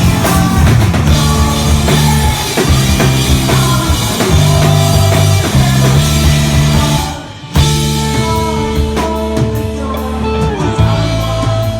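Rock music with a drum kit and guitar, with a brief break about seven seconds in before the band comes back in.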